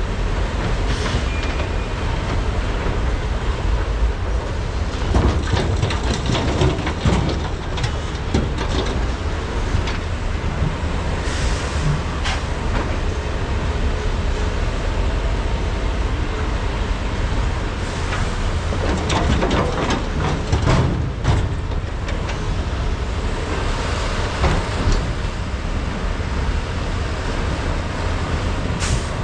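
Large hydraulic excavators' diesel engines running steadily under load with a deep rumble, broken several times by clattering and knocking.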